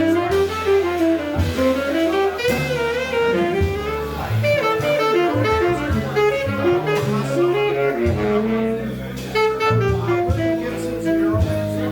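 Live jazz band playing: a quick, busy lead melody of many short notes over low bass notes.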